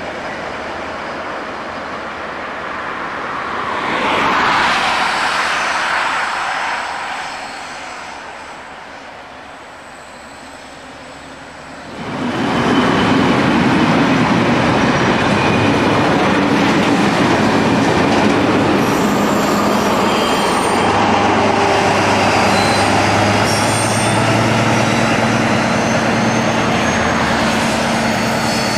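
DB class 204 diesel locomotive with a freight train. First the locomotive's engine swells as it approaches about four seconds in, then fades. After a cut about twelve seconds in, loaded freight wagons roll past close by, wheels rumbling and squealing, with the locomotive's engine running under load near the end.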